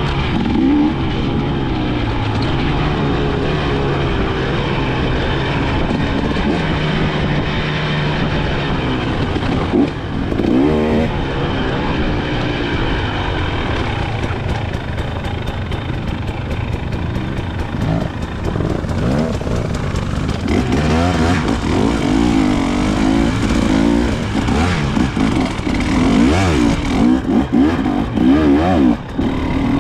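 KTM 300 XC-W two-stroke single-cylinder dirt bike engine being ridden, its pitch rising and falling with the throttle. The revs change more quickly and choppily in the second half.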